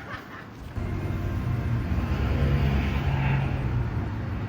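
A motor vehicle's engine passing with a low, steady hum, coming in about a second in amid street traffic.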